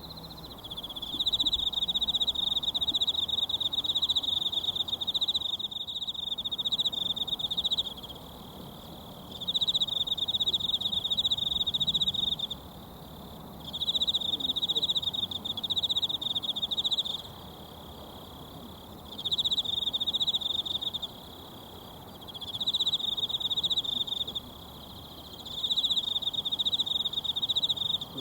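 An insect trilling in repeated bouts of two to four seconds with short pauses between them, a high, even buzz, over the faint steady rush of a mountain stream.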